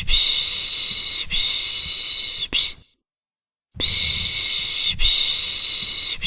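Baby-soothing 'piş piş' shushing: long, steady 'shhh' sounds about a second each, ending a run with a short one, then a pause of about a second before the run starts again.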